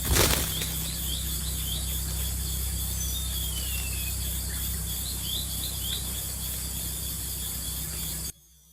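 Short high bird chirps in small groups and one falling whistle, over a steady electrical hum and hiss that cuts off abruptly near the end.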